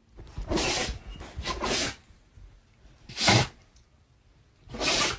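A pet giving four short, sharp, noisy breaths or snorts, about a second and a half apart.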